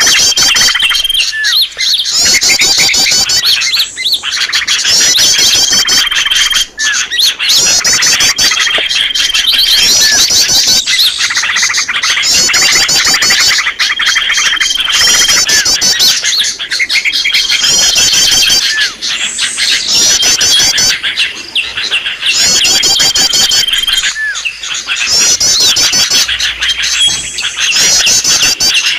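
A dense chorus of small songbirds chirping and trilling, played as a looped bird-lure recording. The same phrase pattern, with a short level whistle among the high chirps, repeats about every four seconds.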